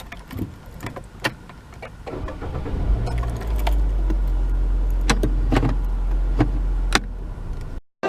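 Scattered clicks and knocks, then a steady low rumble from about three seconds in that cuts off abruptly near the end, like a car running heard from inside.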